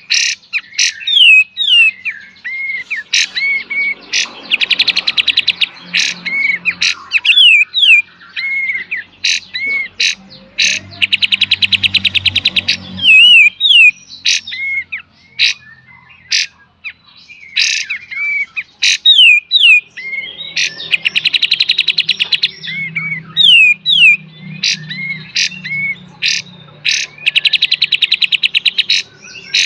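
Kapas tembak songbird singing loudly: sharp short 'tembak' notes and slurred whistles, broken four times by long, rapid, buzzing 'beset' trills of about two seconds each.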